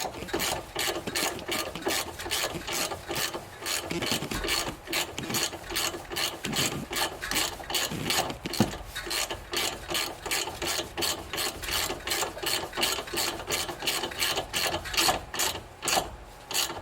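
Hand ratchet clicking steadily, about three clicks a second, as the 10 mm self-tapping bolt holding the front brake line is run in. The clicking stops near the end.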